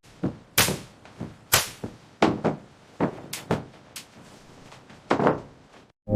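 A run of about a dozen sharp knocks and thuds at uneven intervals, each short and quickly dying away, like construction work striking on metal and timber. The heaviest thud comes about five seconds in.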